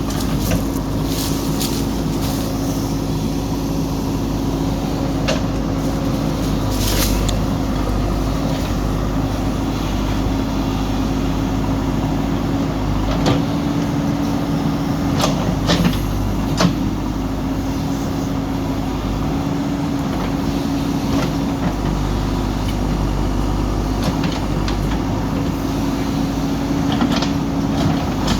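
JCB backhoe loader's diesel engine running steadily at a constant pitch, with scattered short knocks and clunks.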